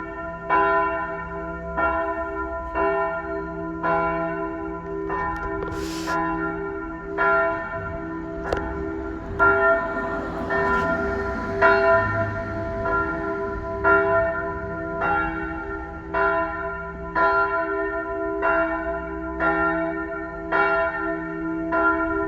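Church bells ringing a continuous peal. Strokes repeat about one and a half times a second, each ringing on into the next so the tones hang together.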